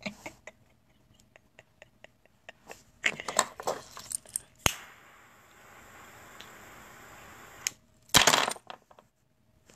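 A run of small clicks and taps, a sharp knock about halfway through, then a faint steady hiss and a loud clattering burst near the end.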